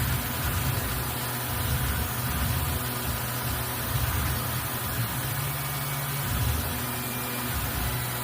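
CNC milling machine running steadily while engraving a name plate: a continuous low hum with faint steady tones and a hiss above it.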